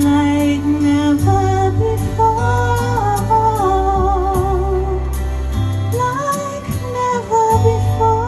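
A woman singing a slow ballad, holding long notes with vibrato, over instrumental backing with bass notes.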